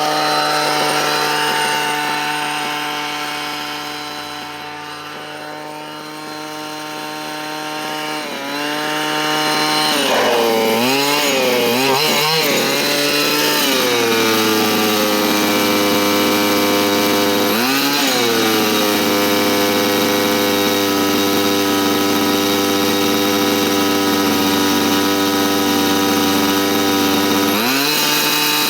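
Dynamite CY23cc two-stroke gasoline engine of a 1/5-scale Losi Desert Buggy XL running during its break-in. It holds a steady speed, with a few brief swings in pitch as the throttle is worked.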